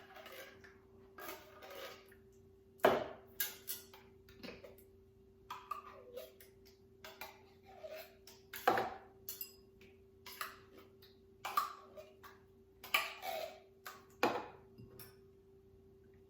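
A utensil stirring a creamy soup-and-butter mixture in a casserole dish, with irregular clinks and scrapes against the dish and a few louder knocks. A faint steady hum runs underneath.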